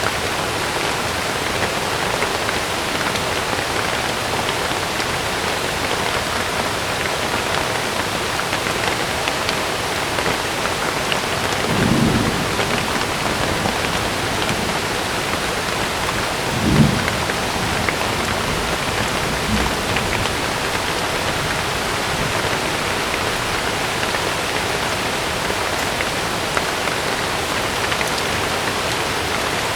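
Heavy rain pattering steadily on a tent, with low thunder rumbling about twelve seconds in and a sharper, louder clap about seventeen seconds in, followed by a faint third rumble.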